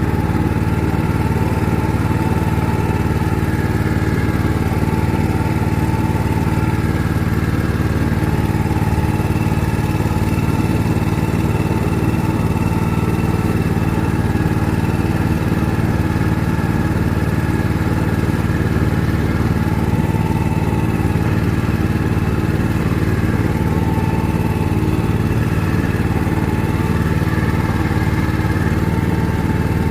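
Motorboat engine running steadily at an even speed, without revving.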